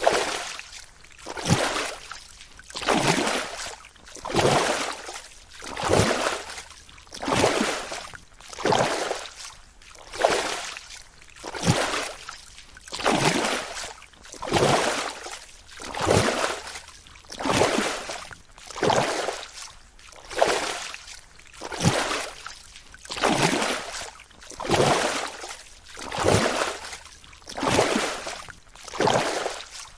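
Rhythmic whooshing of water, one swell about every second and a half, each building up and fading away, very evenly spaced.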